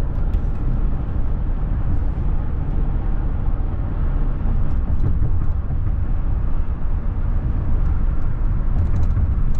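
Steady wind and road rumble on a Honda Gold Wing F6B motorcycle riding at highway speed, a continuous low rumble with no break.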